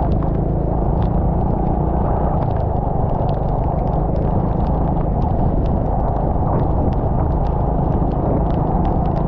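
Steady low rumble of a vehicle travelling, with scattered sharp ticks of rain striking the camera.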